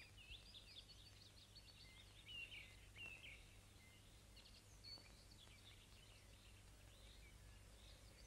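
Faint birdsong: small birds chirping in short, scattered calls, over a low steady hum.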